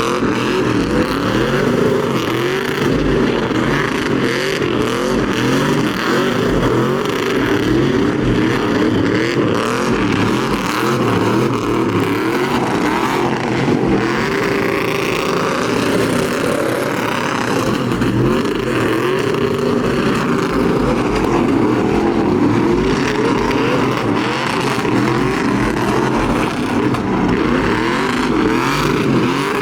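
Truck engines revving hard, several at once, their pitch rising and falling over and over without a break.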